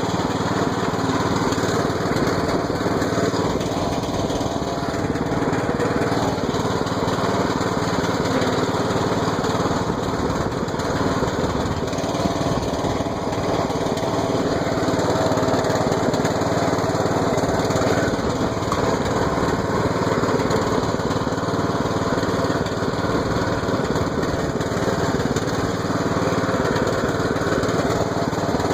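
Lawn mower engine running steadily at an even speed, with no breaks or changes in pitch.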